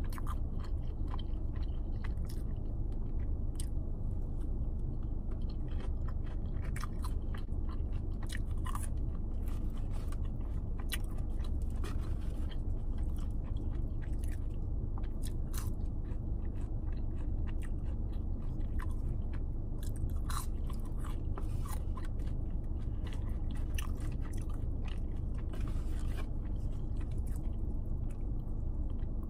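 Close-up chewing of a fried chicken tender eaten with bread: steady wet mouth sounds with many short, sharp clicks, over a constant low rumble.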